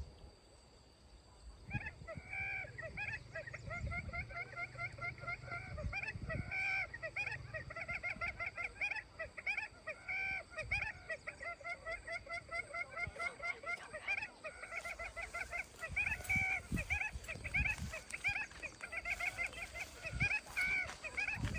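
A flock of domestic waterfowl calling all together: many short calls in quick succession, overlapping, starting about two seconds in.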